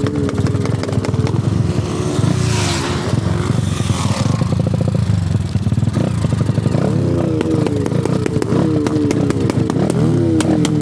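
Honda CG single-cylinder motorcycle engine running under way, its pitch falling and then rising again several times in the second half as it is revved through the gears. Wind rushes past briefly around two to four seconds in.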